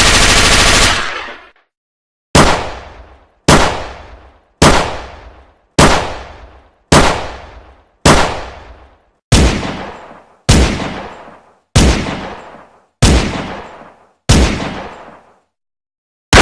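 Gunshot sound effects: a rapid automatic-fire burst that stops about a second in, followed by eleven single shots at a steady pace of about one a second, each with a fading tail.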